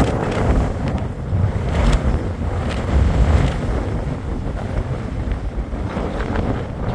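Strong, gusting wind buffeting the microphone: a loud, rough rumble that rises and falls without letting up.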